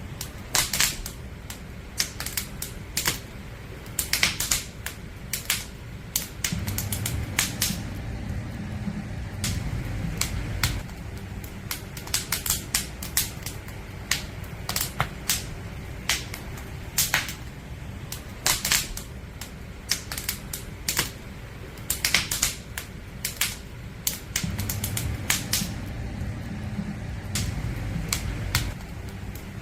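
Wood fire crackling, with irregular sharp pops and snaps of burning firewood. A low rumble of the fire swells twice, for several seconds each time.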